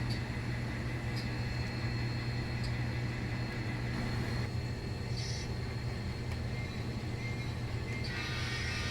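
Sound-equipped N scale diesel locomotive's engine sound played through speakers, a steady low diesel hum as it moves. A few faint ticks, and a higher sound of several tones comes in near the end.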